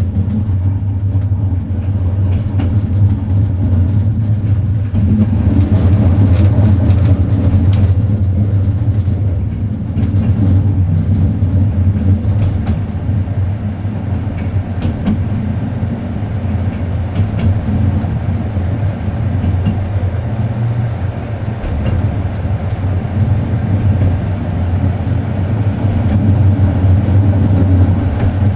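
Passenger train running at speed, heard from on board: a steady low rumble of wheels on rail, with scattered clicks from the track a few seconds in.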